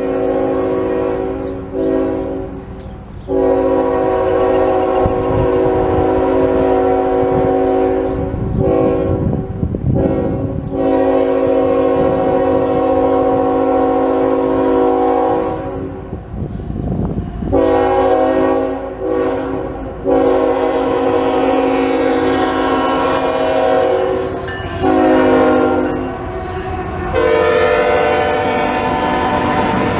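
Union Pacific diesel locomotive's multi-chime air horn sounding a series of long blasts with short gaps between them, over the low rumble of the train rolling past.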